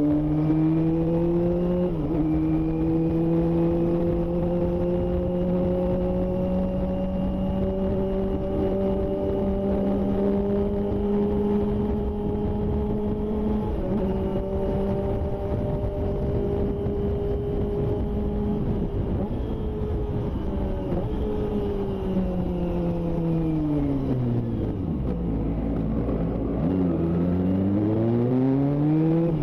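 Kawasaki ZX-25R's 250 cc inline-four engine through a Yoshimura Alpha exhaust, heard from the moving bike. It runs at a steady cruise with brief dips about two seconds in and again halfway through. Then the note falls away as the bike slows, stays low for a couple of seconds, and rises again under acceleration near the end.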